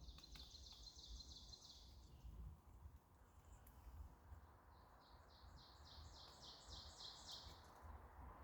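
Faint songbird singing: a high trill in the first two seconds, then a run of about ten quick notes, each sliding down in pitch, at about three a second and growing louder, over a faint low rumble.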